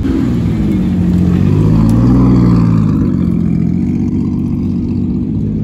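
Car engine revving: the note climbs for about two seconds, holds, then eases back.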